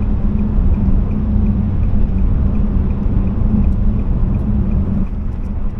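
Steady drone of a car on the move, heard inside the cabin: road noise and the Nissan Qashqai's 1.5 dCi K9K diesel engine running, with a constant low hum. The engine has just thrown a turbocharger underboost fault.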